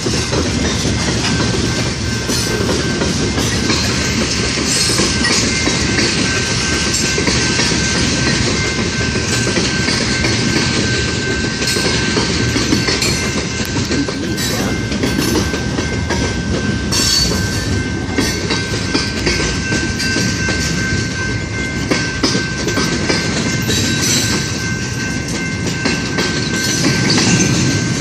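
Freight cars of a long mixed freight train rolling past, wheels clattering over the rail joints in a continuous loud rumble, with a thin steady high ring running through it.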